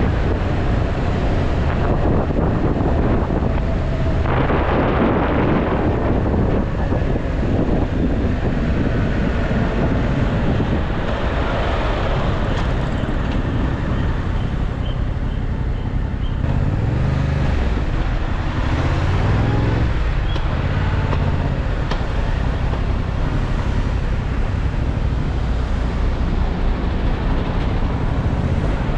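Yamaha MT-07's parallel-twin engine running while riding, with wind rushing over the microphone. The engine note rises and falls a few times past the middle.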